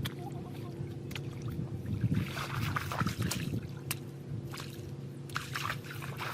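Water sloshing and splashing in irregular bursts, over a steady low motor hum.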